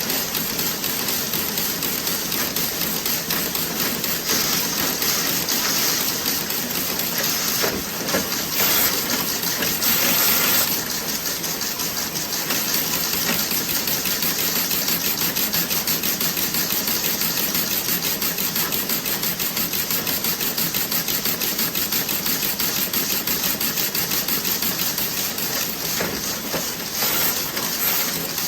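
Toe-sock knitting machine running, a fast even clatter of ticks. Spells of louder hissing come and go about four and ten seconds in.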